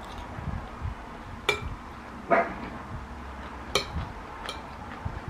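Close-miked chewing of a mouthful of food, with a metal fork clinking against a ceramic bowl a couple of times, and one short sharp sound a little after two seconds in.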